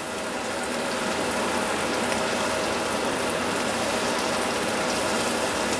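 Vegetables and garlic sizzling in butter in a hot frying pan, a steady hiss.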